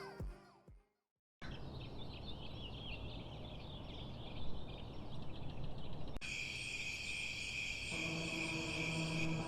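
Music fades out into a short silence. Quiet outdoor ambience follows, with high wavering chirps. About six seconds in, steady high tones join, and near the end a low sustained music drone comes in.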